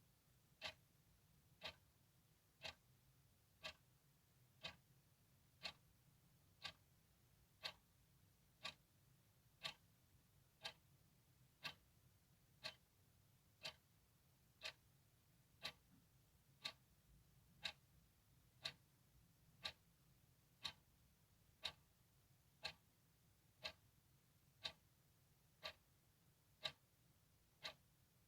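Clock ticking steadily and quietly, about one tick a second, over a faint low hum.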